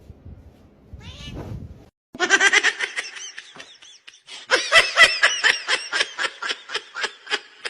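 A cat crying out in high-pitched calls: a first run of cries a couple of seconds in, then a fast string of short, sharp cries, about five a second.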